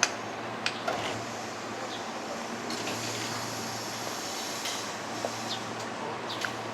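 Railway station platform ambience: a steady low hum with a noisy hiss over it, broken by a few light clicks and knocks, two of them about a second in and two more near the end.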